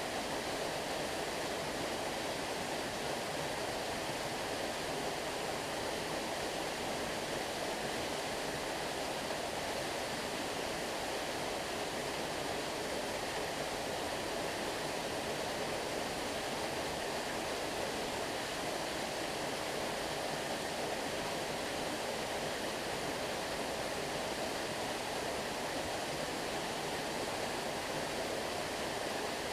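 Stream water flowing, a steady, unchanging rush.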